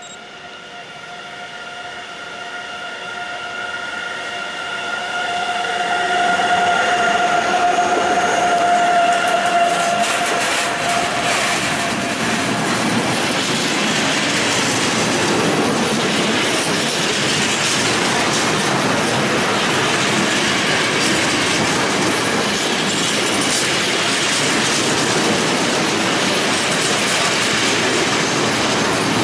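An electric train approaches with a steady whine of several tones that grows louder over the first six seconds or so. It then passes close by, and from about ten seconds in the whine gives way to a loud, even rush of wheels on rails with clickety-clack over the rail joints.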